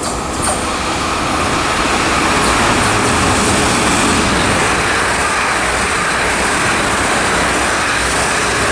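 Two coupled South Western Railway Class 444 electric multiple units passing through the station at speed: a steady roar of wheels on rail and rushing air that builds over the first couple of seconds, then holds.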